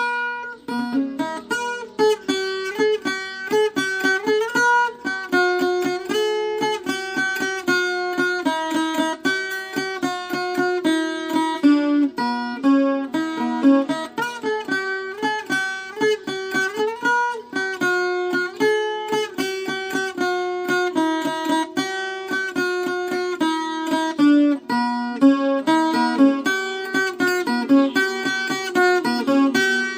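Viola caipira, the Brazilian ten-string folk guitar, played instrumentally: a continuous melody of quickly plucked notes.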